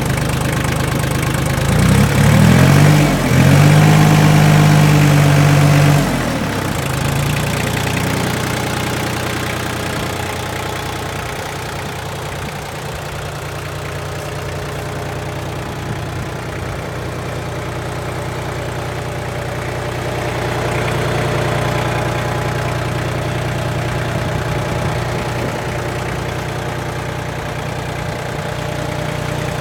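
Iseki TL2500F compact tractor's diesel engine running at idle, revved up about two seconds in, held for a few seconds, then dropping back to a steady idle.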